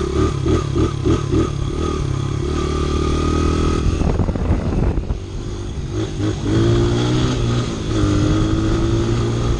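Honda CRF100F's single-cylinder four-stroke engine running as it is ridden. The revs pulse quickly on and off in the first second or so, then run steady, drop off about four seconds in, and pick up and hold again.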